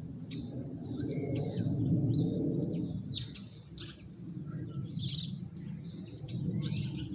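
Several backyard songbirds chirping in short scattered calls, over a low rumbling noise that swells about two seconds in.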